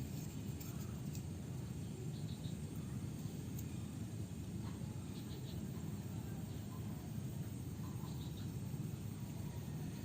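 Steady low background rumble with a few faint, short high-pitched ticks or chirps scattered through it.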